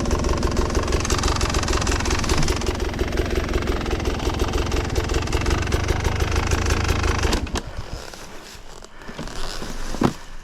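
Off-road enduro motorcycle engine running steadily with an even pulse, then cutting out about seven seconds in. After that there is quieter rustling and a single sharp knock near the end.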